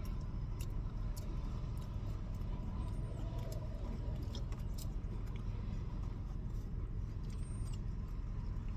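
Steady low rumble with faint, scattered clicks over it.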